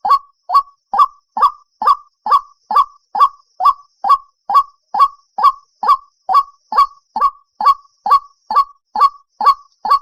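White-breasted waterhen calling: short, loud, evenly spaced notes, about two a second, repeating steadily without a break.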